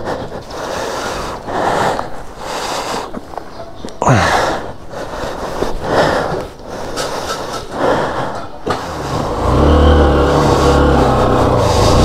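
Irregular rustling and handling noise. About three-quarters of the way in, a motorcycle engine starts and runs at low revs with a steady, slightly wavering throb as the bike pulls away.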